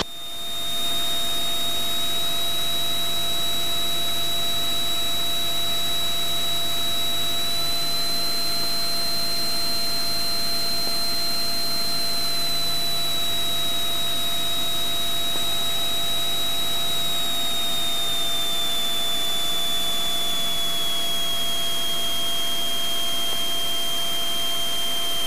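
Cockpit noise of a Cessna 182 Skylane's piston engine and propeller in flight: a steady drone with a high whine that rises slightly, then falls gradually through the second half. It swells up over the first second after a radio call ends.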